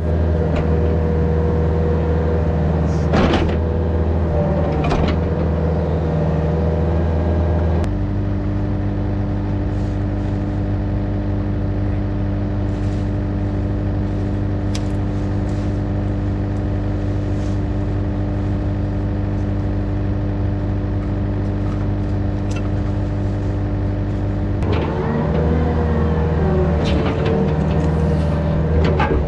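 Yanmar VIO50 mini excavator's diesel engine running steadily under work, with its note changing about eight seconds in and changing back near the end. A few knocks in the first few seconds.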